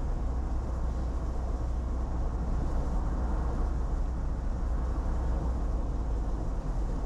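Steady road and engine noise inside a moving car, a constant low rumble with tyre hiss above it.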